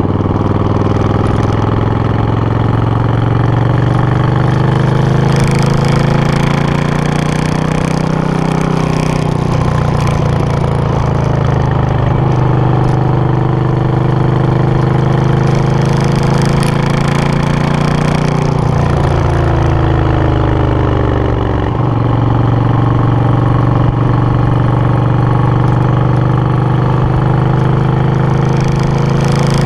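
Suzuki VS800 Intruder's V-twin engine running through its exhaust, the engine speed slowly climbing and then dropping back twice.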